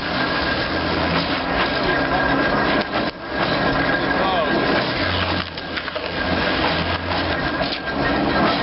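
Steam-engine-driven veneer mill running, its knife cutting and splitting wood with continuous splintering and crackling over the machinery noise. A low hum swells twice, about a second in and again around five seconds in.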